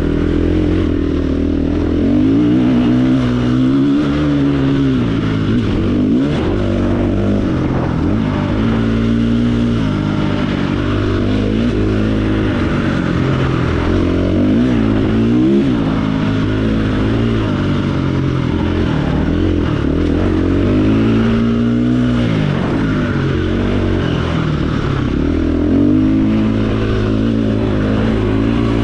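KTM dirt bike engine being ridden hard, its pitch rising and falling every second or two as the throttle is opened and shut.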